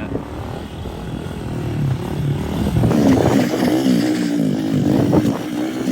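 110cc pit bike engine revving during a wheelie, its pitch wavering up and down as the throttle is worked, getting louder about halfway through.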